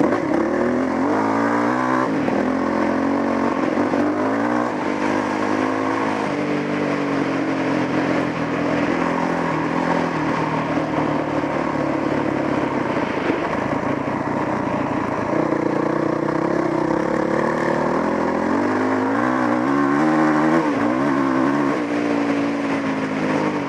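Dual-sport motorcycle engine running under way, its pitch climbing in steps as it revs through the gears near the start and again near the end, with a steadier cruising note in between.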